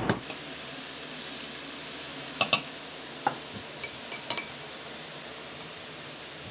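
Utensil clinking against a bowl while cookie-and-milk cake batter is mixed: a handful of short, sharp clinks with a brief ring, two in quick succession about two and a half seconds in, over a steady low hiss.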